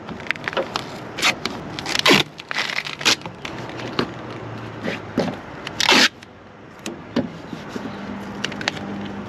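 Duct tape being ripped and pulled off the roll and pressed onto a car bumper, in a series of short, irregular rips and crackles, two of them longer and louder about two and six seconds in.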